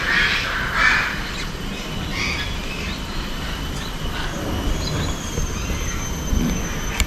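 Parrot aviary ambience: scattered short parrot calls, the densest in the first second, over a steady low rumble, with a faint thin high whistle in the second half.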